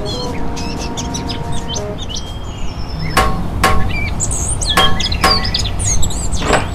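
Birds chirping over a steady outdoor background, with several short sharp sounds in the second half.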